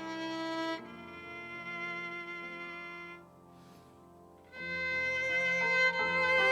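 Instrumental music led by a bowed violin playing long held notes over other sustained notes. It drops to a soft passage about three seconds in, then swells louder again a second and a half later.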